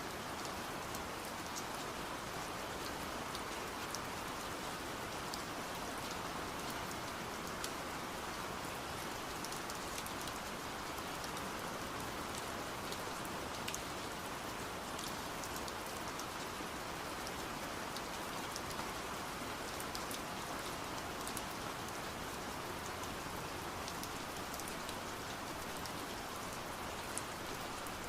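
Steady rain hiss with scattered sharp taps of drops striking window glass.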